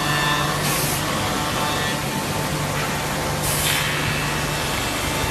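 Automatic twin-spindle copy shaper running, its spindles and cutters giving a steady hum and noise as it mills wood, with two short hissing bursts about three seconds apart.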